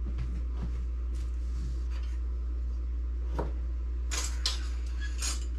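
A few light clacks and rattles of kitchen items being handled, about three seconds in and again near the end, over a steady low hum.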